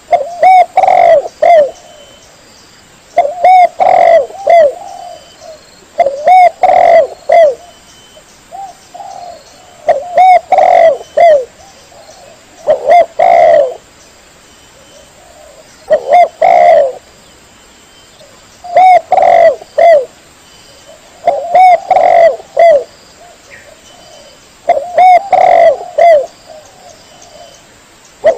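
Spotted dove (tekukur) cooing: phrases of several coos, about one every three seconds, ten in all.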